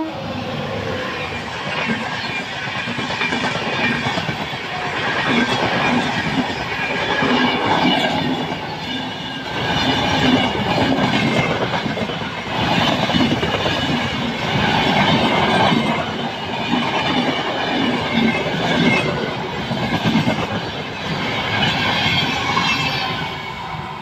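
Kalinga Utkal Express coaches running at about 110 km/h with a steady clickety-clack of wheels over the rail joints. The rumble swells and eases every couple of seconds as the coaches go by.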